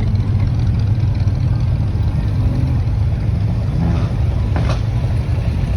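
Steady low rumble of a classic car's engine running as it cruises, with a brief sharper sound near the end.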